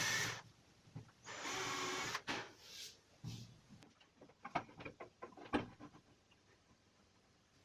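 Electric drill running in two short bursts, driving screws into laminated particle board, followed by scattered light clicks and knocks.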